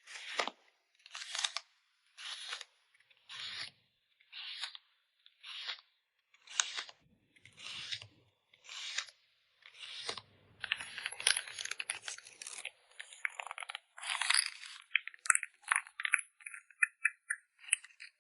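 Photocard packing materials being handled: about nine short rustling swipes roughly a second apart, then a few seconds of continuous crinkling, then a run of quick clicks near the end.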